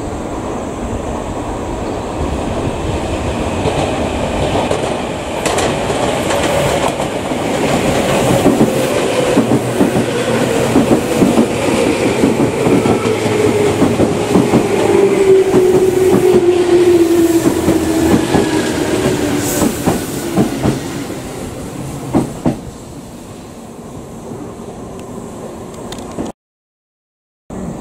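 Tobu 10050-series electric train pulling out past the platform end, its wheels clattering over rail joints and points. A whine falls steadily in pitch as the train moves away. The sound fades a few seconds before the end.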